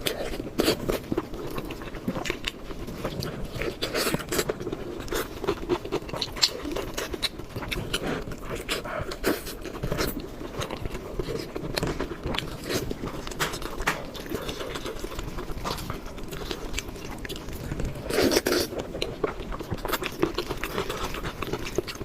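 Close-miked eating: a person biting and chewing fatty braised pork knuckle, with a steady stream of short mouth clicks and a louder stretch of chewing about eighteen seconds in.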